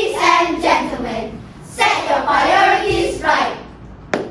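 A chorus of children's voices speaking in unison in two phrases, followed near the end by one sharp clap.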